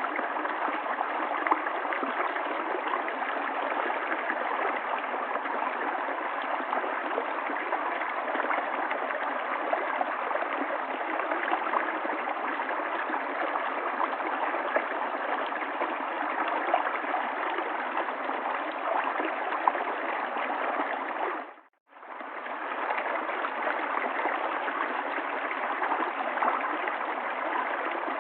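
River water flowing: a steady rushing stream with small gurgles and splashes, heard as a thin mid-range rush with no deep rumble. About two-thirds of the way through it dips almost to silence for a moment, then comes straight back.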